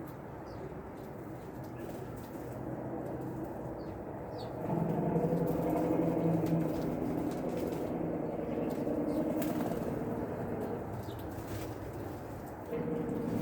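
A low, steady motor drone that gets louder about five seconds in, with a few faint, short, high bird chirps and light clicks over it.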